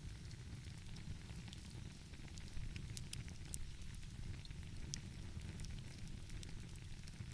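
Wood fire crackling, with irregular sharp pops and snaps scattered through it, over a steady low rumble.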